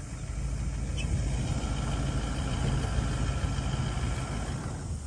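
A motor vehicle running steadily with a low rumble, which stops abruptly near the end.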